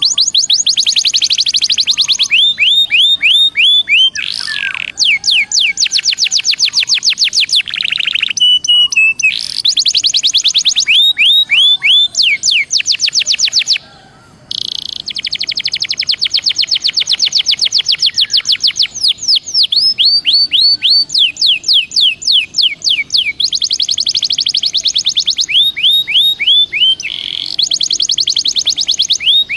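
A Belgian canary singing a loud, continuous song of fast repeated trills and rolling series of falling notes. There is a short break about 14 seconds in.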